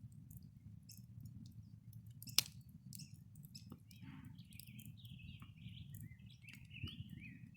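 A small bird singing a quick warbling, chirping song from about halfway through, over a faint low background rumble, with a few light clicks and one sharper click a little over two seconds in.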